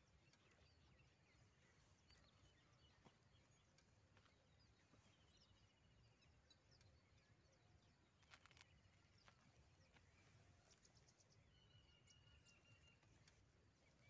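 Near silence: faint outdoor ambience with a few distant bird calls, including a short rapid trill about five seconds in and a longer one a little before the end.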